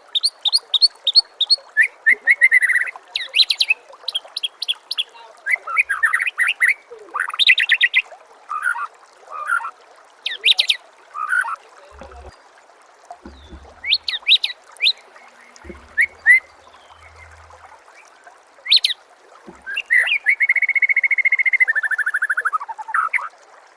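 White-rumped shama (murai batu) singing a fast, varied song of short phrases, rapid repeated notes and trills, ending in a long trill near the end. Under it is a steady background of gurgling water.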